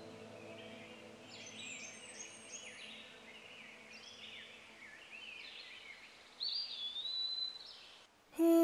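Songbirds chirping and calling, a mix of short chirps and gliding whistles, with one louder rising whistle that levels off near the end. The sound cuts out for a moment, then music with held notes comes in right at the close.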